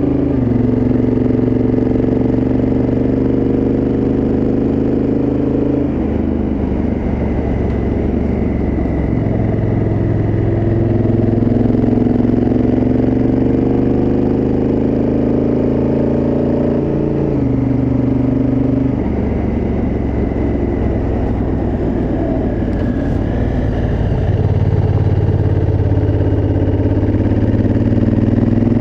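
Honda Africa Twin CRF1000L parallel-twin engine through its stock exhaust, ridden under load: the revs climb steadily in gear, with sharp drops as the rider rolls off or shifts gear about six seconds in and again around seventeen and nineteen seconds in.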